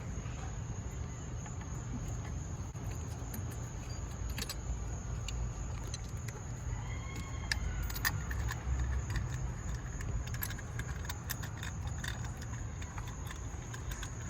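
Light metallic clinks and clicks of hand tools, a spark plug socket and ratchet, handled at a Jeep XJ's spark plugs, scattered throughout over a steady low background rumble.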